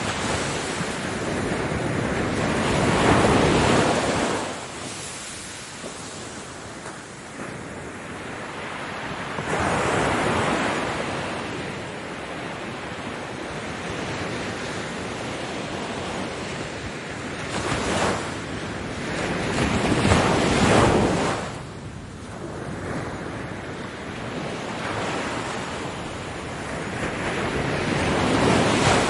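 Ocean waves breaking on a beach: a steady wash of surf with louder breakers swelling and falling away every several seconds, the biggest about 3, 10 and 20 seconds in.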